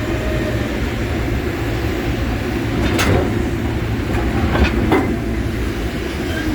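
A heavy machine's engine running with a steady low rumble, with sharp metal clanks about three seconds in and twice more near five seconds, as cast iron scrap is lifted off a pickup bed with a magnet.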